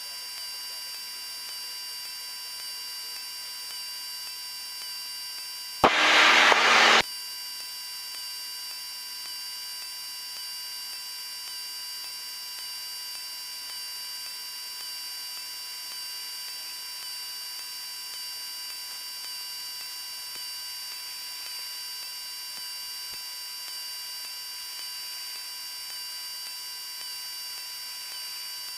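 Steady electrical hiss and whine on a light aircraft's intercom audio feed, with a loud burst of radio static lasting about a second, about six seconds in.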